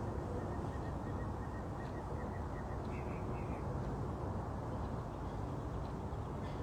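A bird calling over a steady low rumble of background noise: a faint run of short chirps, then two brief calls about three seconds in.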